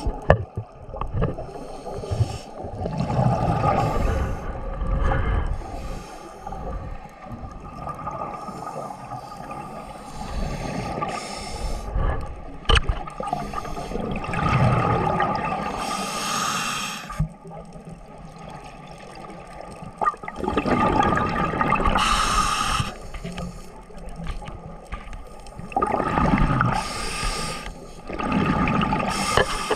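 Water sloshing and gurgling, swelling up loudly every five or six seconds and easing off in between.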